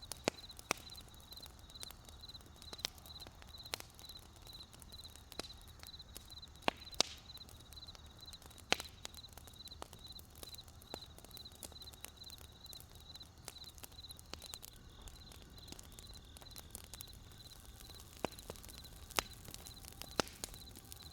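Wood campfire crackling with sharp, irregular pops, over a cricket chirping steadily about three times a second.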